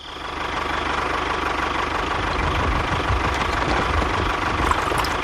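An engine running steadily at idle, with a fast even pulsing and a faint steady whine.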